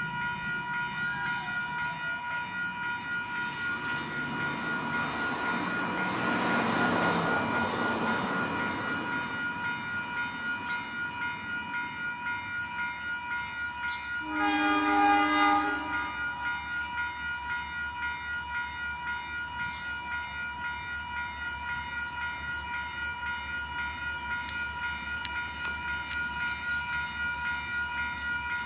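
A train is going by, hauled by a DA-class diesel-electric locomotive: a swelling rush of engine and wheel noise, then one horn blast of about two seconds near the middle, followed by a low, even pulsing. A steady high-pitched tone sounds throughout.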